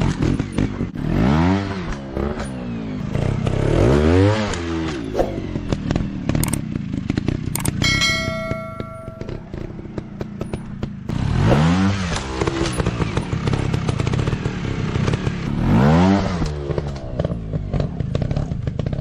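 Motocross bike engines revving up and dropping back again and again, with clattering underneath. A short bell-like ring sounds about eight seconds in.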